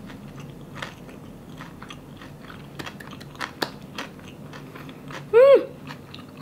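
A person chewing a mouthful of kimbap (seaweed-wrapped rice roll) close to the microphone, with small wet mouth clicks throughout. About five seconds in comes a short, high hum through the closed, full mouth that rises and then falls.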